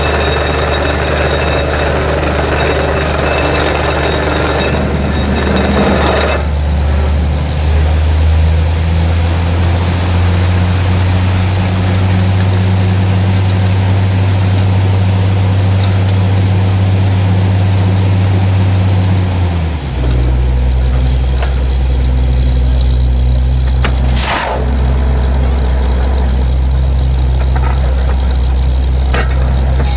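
Truck-mounted borewell drilling rig's diesel engine running steadily under load, its pitch stepping down about twenty seconds in. A loud rushing noise rides over it for the first six seconds and cuts off sharply, and a short hiss comes about four seconds after the pitch drop.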